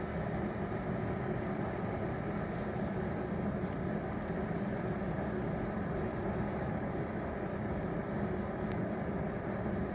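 Fire burning inside a hollow log: a steady low rumble that runs without break.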